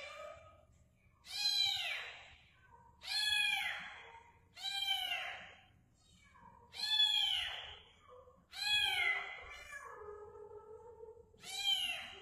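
Kitten meowing repeatedly, about six high-pitched meows, each rising and falling, one every couple of seconds.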